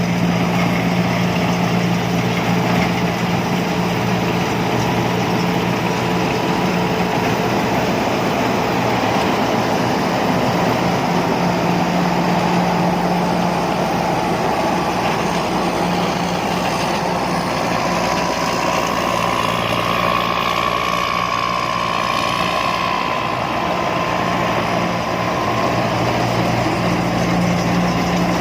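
Combine harvester's diesel engine running steadily with mechanical clatter. A higher whine swells up about two-thirds of the way through and fades again near the end.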